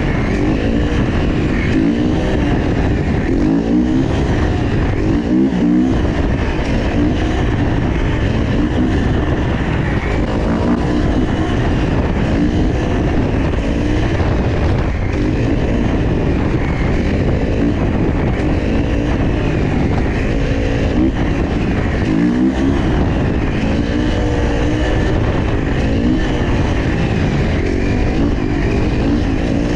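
Dirt bike engines revving up and down over and over.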